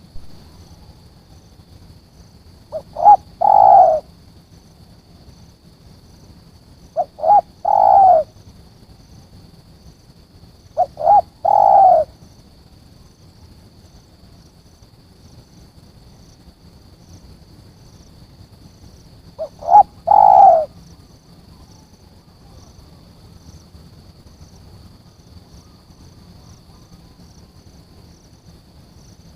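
Spotted dove cooing four times, each call a couple of short notes running into a longer, louder coo, with long pauses between calls. A steady high-pitched thin tone sounds underneath throughout.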